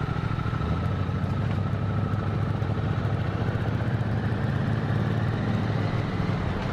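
Motorcycle engine running steadily under way, with a constant low engine note and road and wind noise.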